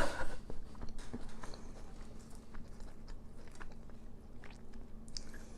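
A person biting and chewing crispy oven-baked onion rings close to the microphone, with small crunches scattered throughout.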